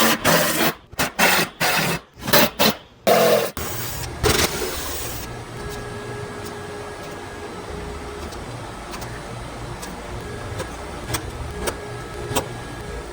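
Loud, rough noise in short bursts through the first three seconds or so, then the steady drone of a refrigerant vacuum pump evacuating the AC system, with occasional light clicks.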